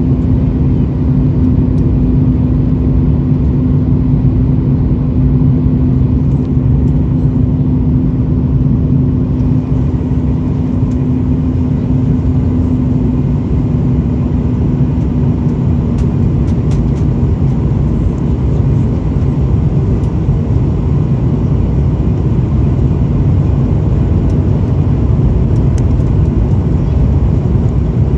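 Airliner cabin noise: a loud, steady rumble of engines and rushing air, with a steady hum that fades away about halfway through.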